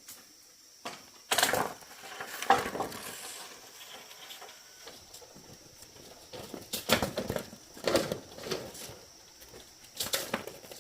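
Irregular clattering, rustling and a few sharp knocks from hands handling objects, in clusters, over a steady faint high hum.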